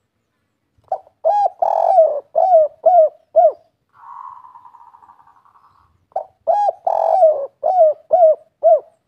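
Spotted dove (derkuku) singing the 'kuk 3' song: two loud phrases of about six cooing notes each, with a quieter buzzy trill between the phrases.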